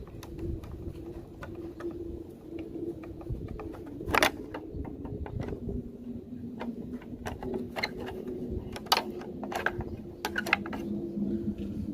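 Scattered clicks and knocks of hand tools on metal and plastic parts as screws holding a split AC indoor unit's evaporator coil are taken out, over a low steady hum.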